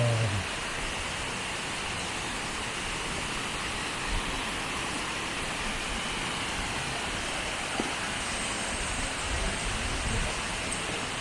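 Rushing water, a steady even hiss that keeps on without a break.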